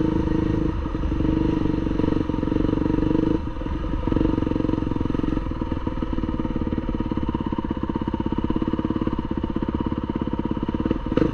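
Motocross bike engine running steadily on the throttle, then easing off about three seconds in to a lower, pulsing run with the individual firing strokes audible, with a short blip of the throttle near the end.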